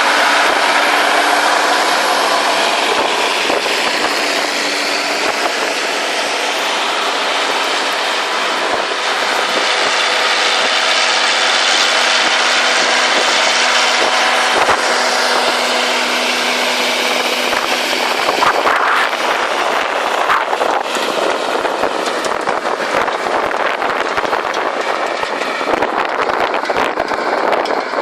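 County four-wheel-drive tractor's diesel engine working hard while ploughing, a loud, steady mechanical drone. In the second half it grows rougher, with scattered sharp clicks.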